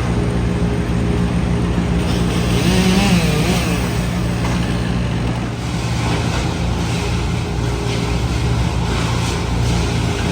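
A large engine running steadily with a low hum, its pitch briefly rising and falling about three seconds in.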